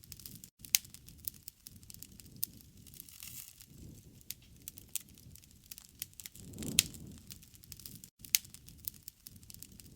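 Wood fire crackling steadily, with many small snaps and a few sharp louder pops, the biggest about a second in, near seven seconds and just past eight seconds. The sound cuts out for an instant twice.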